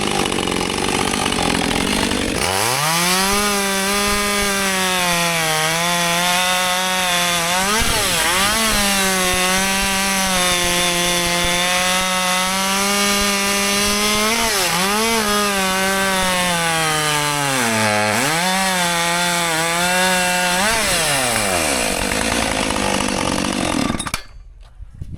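Husqvarna 564 XP 62cc two-stroke chainsaw running at high revs through a cut, its engine note holding high and sagging briefly three times under load. The sound drops away suddenly about a second before the end.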